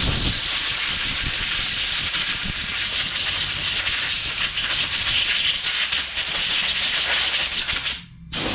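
Compressed air from an air blow gun blowing off a mower engine part: one long loud hiss that stops after about eight seconds, then a short second blast near the end.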